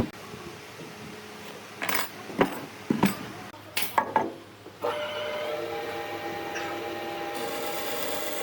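Wood and tools knocking and clattering in a handful of sharp knocks, then about five seconds in a power tool starts and runs steadily on the wood.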